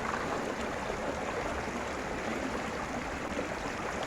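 Water rushing over rocks in a stream, a steady, even rush.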